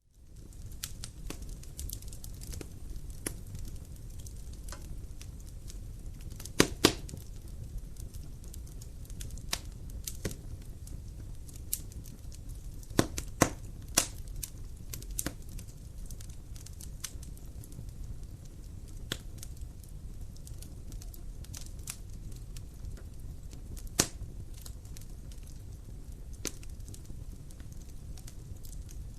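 Wood fire in a fireplace crackling, over a steady low rumble of the flames, with scattered sharp pops from the burning logs. The sound fades in at the start; the loudest pops come as a pair about a quarter of the way in, a quick cluster around the middle, and one near the end.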